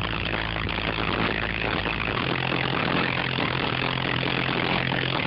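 Car audio subwoofers playing a loud, steady low bass tone that shifts up in pitch about two seconds in.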